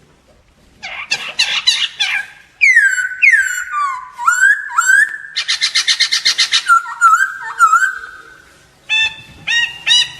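Black-throated laughingthrush singing a loud, varied song: a burst of quick notes about a second in, then a run of falling whistled slurs and a fast trill. After a short pause near the end come ringing, repeated whistled notes.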